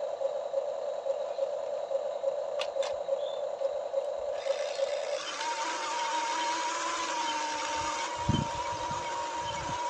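Small electric motors of a radio-controlled toy excavator whining steadily. About halfway through, the whine jumps to a higher pitch with added hiss, and a few low thumps come near the end.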